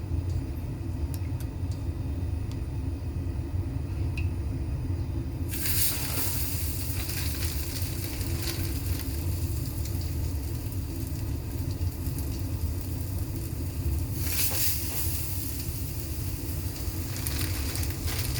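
Egg-dipped bread sizzling on a hot dosa tava over a low flame. The sizzle sets in suddenly about five seconds in and flares up again about fourteen seconds in, over a steady low rumble.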